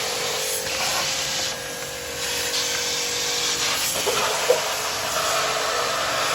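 Steady hiss of compressed air blowing from an air spray gun, with a steady hum under it; the hiss eases briefly about one and a half seconds in, and there is one sharp click about four and a half seconds in.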